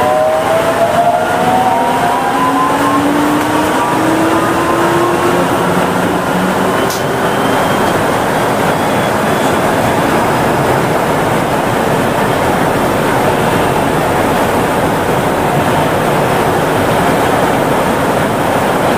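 Kanazawa Seaside Line 2000-series rubber-tyred automated train running, heard from inside the car: the traction motors' inverter whine rises in pitch as the train accelerates for the first several seconds. It then gives way to a steady rolling noise of the tyres on the guideway, with a single click about seven seconds in.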